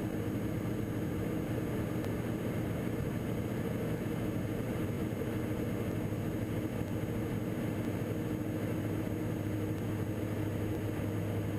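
Diamond DA42 NG's twin Austro turbodiesel engines running at steady cruise power with both engines on, heard as an even, unchanging drone in the cockpit.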